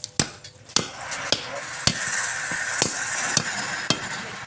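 Woodturning on a lathe: knocks repeat about twice a second, and from about a second and a half in a hissing cut joins them for a couple of seconds.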